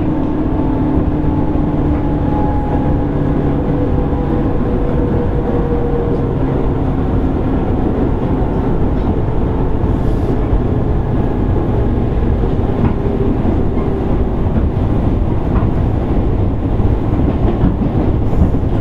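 Running noise inside a JR East 205 series 600 subseries motor car: a steady rumble with faint wheel clicks, and a motor and gear whine that slowly falls in pitch as the train slows.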